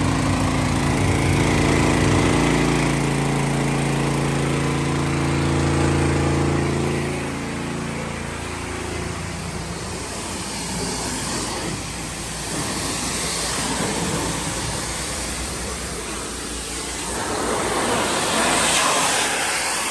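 Hot pressure washer running with its Powerease 420 cc engine, pump and lit oil burner while the gun sprays. The engine's steady hum gives way about eight seconds in to a rougher rushing noise, which grows louder again near the end.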